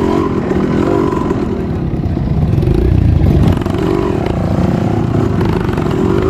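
Trail motorcycle engine running under throttle, its pitch rising and falling as it is revved, loudest about three seconds in.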